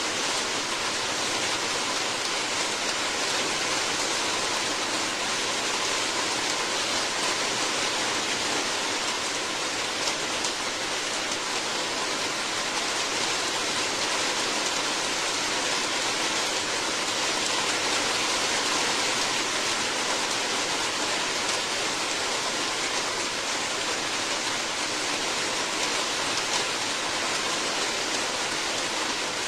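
Steady heavy rain, a dense even hiss with faint scattered drop ticks.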